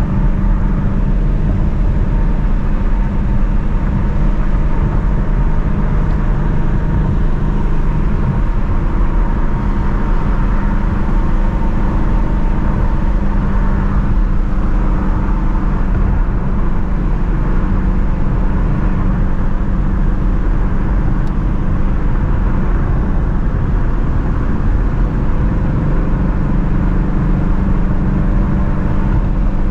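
Ford Shelby GT350's 5.2-litre flat-plane-crank V8 running steadily while the car cruises at an even pace, with no hard acceleration or revving.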